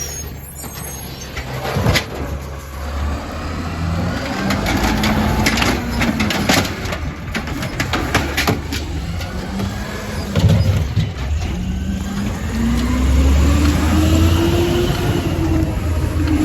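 Compost collection truck's engine running and revving, its pitch rising and falling twice, the longer rise near the end. Several sharp clicks and knocks come in the middle.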